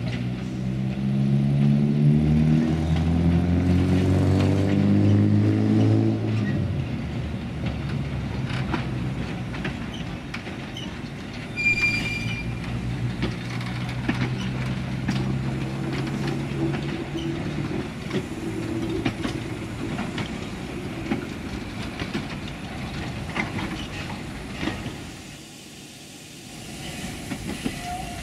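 Narrow-gauge train of old coaches and wagons rolling slowly past during shunting, wheels clicking over the rail joints and a short high squeal of wheel on rail about twelve seconds in. For the first six seconds a steady, louder engine drone lies over it.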